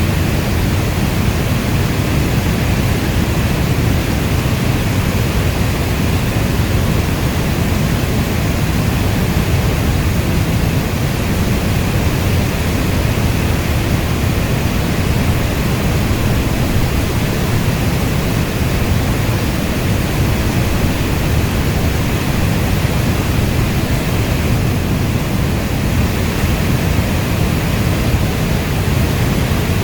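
Steady heavy rain, a dense, even hiss weighted toward the low end with no single drops or thunder standing out.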